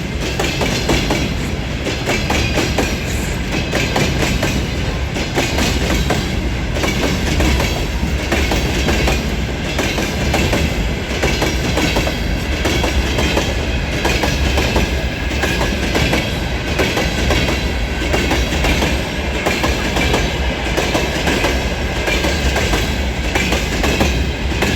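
Freight train departing, its wagons rolling past with a steady noise and wheels clicking over rail joints in an even rhythm.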